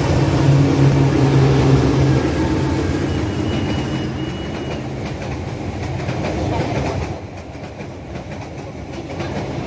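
A GE CC206 diesel-electric locomotive passing close by, its engine droning loudly for the first two seconds or so. The sound then fades into the rumble of the passenger coaches, with their wheels clicking over the rail joints.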